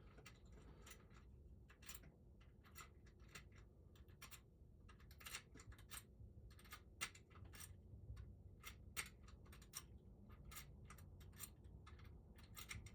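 A key being pushed in and out of a freshly lubricated lock cylinder, giving a string of faint, irregular clicks as it passes over the pins.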